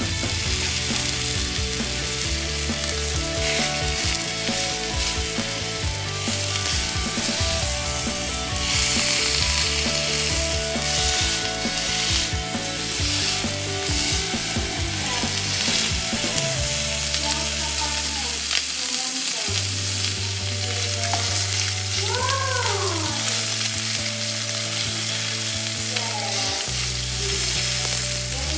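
T-bone steaks sizzling steadily as they sear in a hot ridged grill pan.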